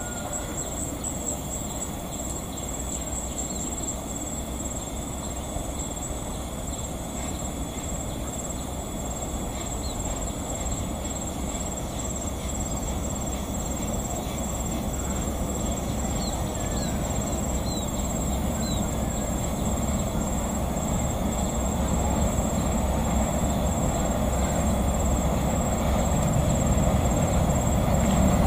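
Approaching passenger train hauled by a diesel-electric locomotive, its rumble growing steadily louder as it nears.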